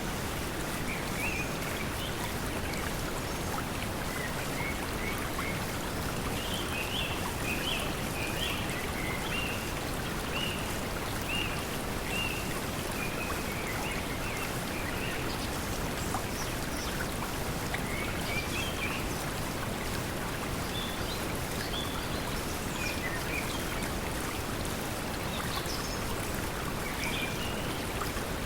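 Steady pink noise blended with the sound of flowing water, with small birds chirping on and off in the background.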